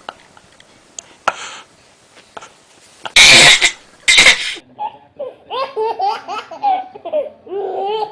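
Two loud, short bursts of noise a little past the middle, then a baby laughing in a run of high-pitched giggles to the end.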